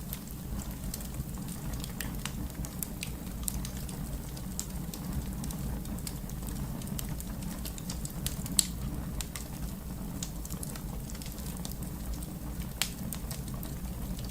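Wood fire crackling: a steady low rumble of flames with scattered sharp snaps and pops, two of them louder, a little past halfway and near the end.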